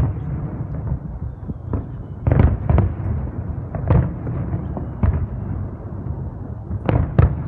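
Fireworks display: aerial shells bursting in a string of irregular bangs, several close together about two and a half seconds in and a pair near the end, over a continuous low rumble.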